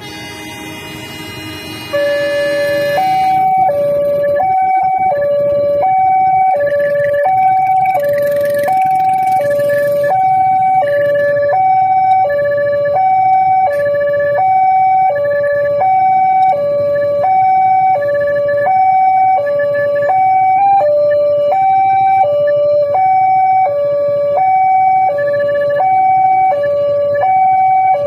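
Railway level-crossing warning alarm sounding a two-tone electronic signal, alternating between a low and a high note about every 0.7 s, which warns that a train is approaching. It starts abruptly about two seconds in, after a steady buzzing tone.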